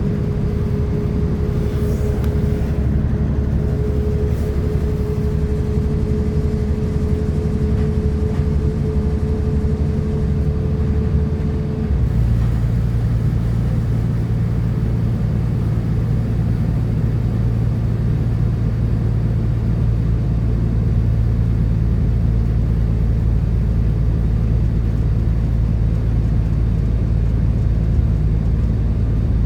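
West Midlands Railway Class 172 Turbostar diesel multiple unit under way, with a steady engine and running hum. A thin whining tone stops suddenly about twelve seconds in, and the hum shifts to a deeper, stronger note.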